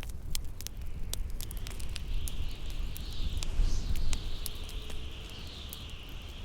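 Bonfire crackling with frequent sharp pops over a low rumble of wind. From about a second and a half in, a high howling wind tone rises and falls.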